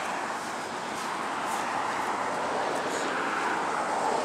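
Steady road noise from car traffic, a hiss that swells slightly toward the end as a car draws near.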